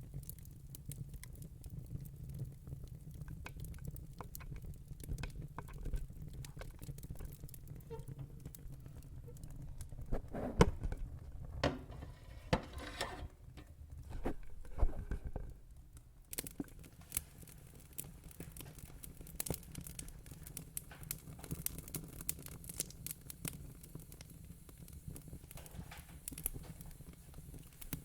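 Log fire in a fire pit crackling, with irregular snaps and pops over a low steady rumble; a cluster of louder pops comes about ten to fifteen seconds in.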